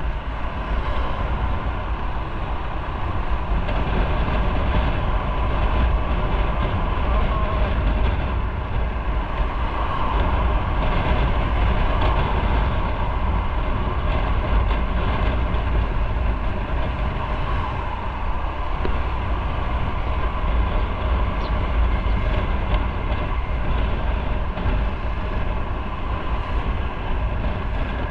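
Motorcycle riding at steady speed: wind rushing over the microphone, with engine and road noise underneath.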